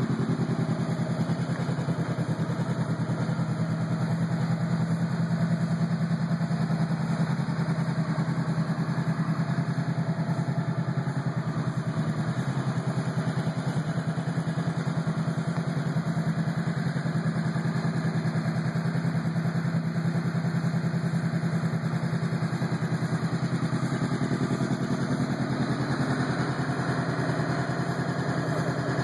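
Honda CB500-series parallel-twin engine with a Leo Vince GP aftermarket exhaust, idling steadily with an even, rapid exhaust pulse.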